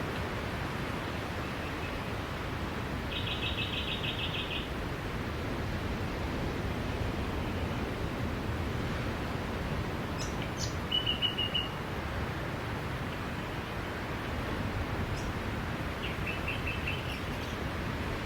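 Steady wash of sea surf with small birds calling over it: a rapid chirping trill about three seconds in, a short call around eleven seconds, and another brief trill near the end.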